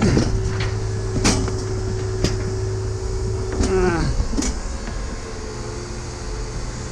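Knocks and clunks from a gaming chair being handled and set down, over a steady machinery hum. A held machine tone winds down in pitch and stops about four seconds in.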